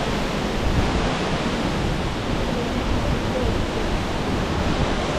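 Waterfall rushing: a steady, even wash of falling-water noise that does not let up.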